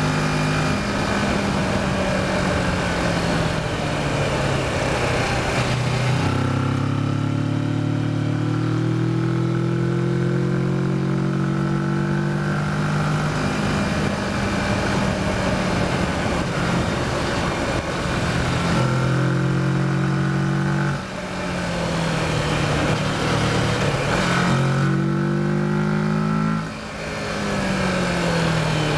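Kawasaki Versys motorcycle engine pulling under way, its pitch climbing as it accelerates, with two brief drops about two-thirds of the way through and near the end where it shifts up to a lower pitch. Wind rushes over the microphone, most strongly in the first few seconds.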